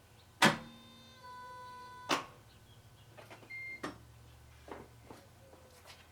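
Three sharp clicks about every second and a half, with a short steady beep-like tone between the first two and a brief high tone before the third. The 1989 Toyota Cressida's engine does not turn over, which the owner was told means it is seized.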